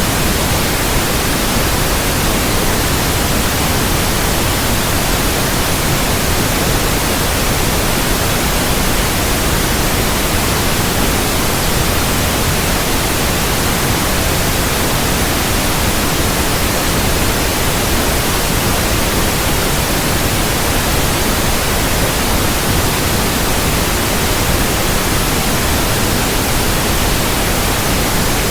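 Steady, loud synthetic white noise, an even hiss across all pitches that does not change.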